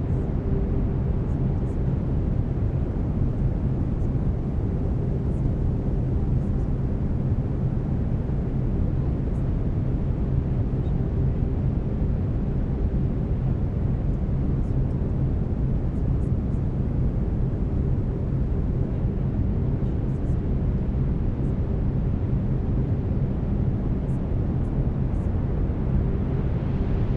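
Steady brown noise, a deep even rushing weighted to the lows, with a few low steady tones underneath, the carrier tones of binaural delta-wave beats.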